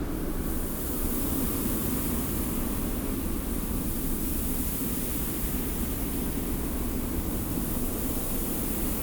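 Steady desert wind with a low rumble and blowing sand. A higher sandy hiss comes in about half a second in and holds even.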